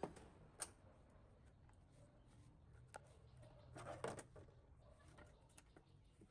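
Near silence broken by a few faint clicks and knocks, with a short cluster of them about four seconds in.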